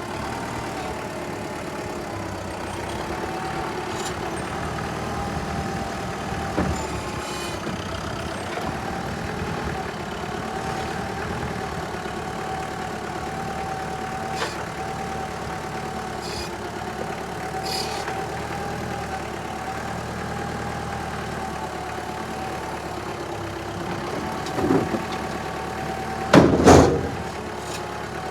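An engine running steadily at idle with a steady whine. There are a few short knocks, and a loud, sharp knock comes about two seconds before the end.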